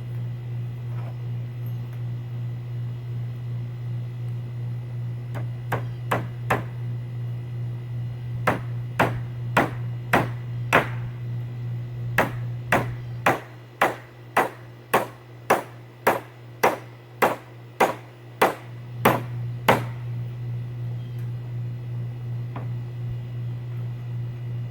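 Hammer strikes during assembly, each with a short ringing tail. There are a few blows, a short pause, then a steady run of about twenty at roughly two a second. A steady low hum continues underneath.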